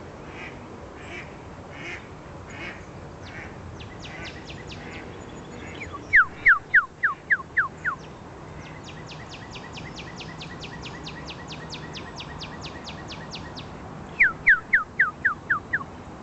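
Human whistling imitating a northern cardinal's song: two loud close series of seven or eight falling whistled notes. Between them, a fainter northern cardinal answers with a fast, even trill of about five seconds. Faint duck quacks come at the start.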